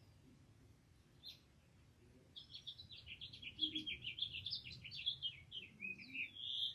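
A songbird singing: one short chirp about a second in, then a fast, jumbled run of short high notes that ends on a rising note.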